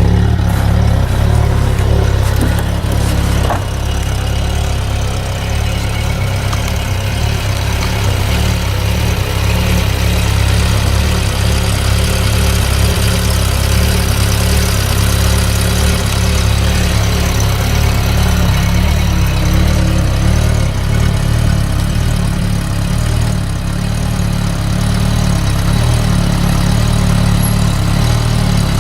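Citroën BX 19 TZi's 1.9-litre fuel-injected four-cylinder petrol engine idling steadily after a cold start in freezing weather.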